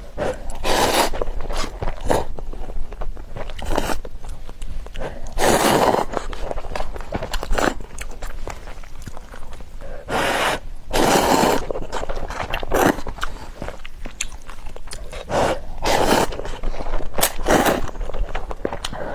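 Close-miked eating of Buldak spicy fire noodles: several loud slurps, each up to about a second long, at irregular intervals, with chewing and mouth clicks between.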